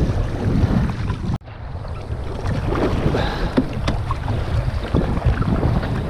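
Wind buffeting the microphone over water sloshing and splashing around a sea kayak, with a brief break about a second and a half in.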